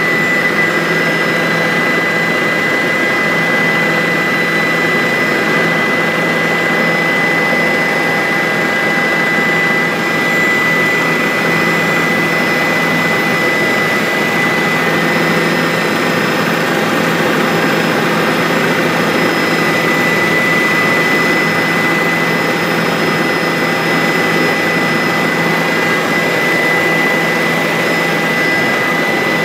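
Bell 407 helicopter's turboshaft engine and rotor running steadily in flight, with a steady high whine over a constant rushing noise.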